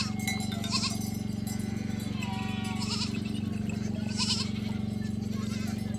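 Sheep or goat-type livestock bleating in short calls about four times, over a steady low hum.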